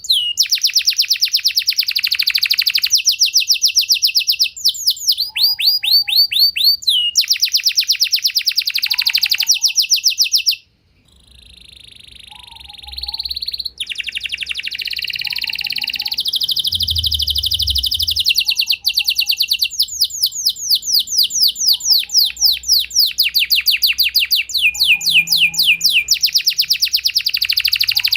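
Domestic canary singing long, fast rolling trills: runs of rapid repeated sweeping notes. The song drops away briefly about ten seconds in, then resumes.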